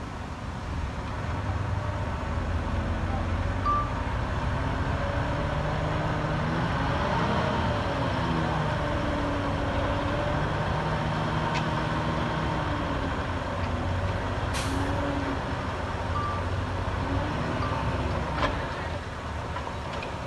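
Heavy earthmoving machinery's diesel engine running under load, its pitch rising and falling. A few short single beeps sound, and a brief air hiss comes about fourteen and a half seconds in.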